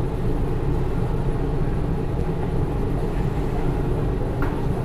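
Steady low rumble of an Indian Railways express train, heard from inside the coach, with a faint click near the end.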